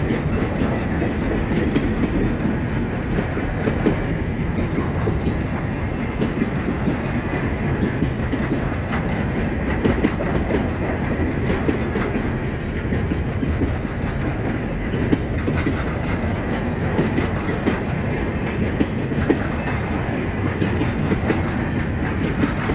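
Long freight train of loaded container cars rolling past at steady speed, a continuous rumble with wheels clicking over the rail joints.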